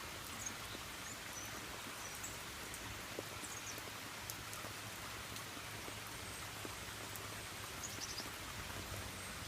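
Steady rain falling, an even hiss, with a few faint high chirps over it.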